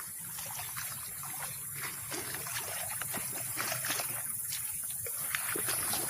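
Small waves lapping against a rocky lakeshore: a stream of irregular light splashes and trickles over a steady high hiss.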